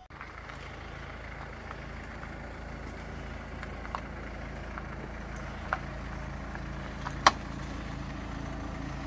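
Mercedes-Benz hearse's engine running low and steady as it creeps slowly forward, with a few sharp clicks over it, the loudest about seven seconds in.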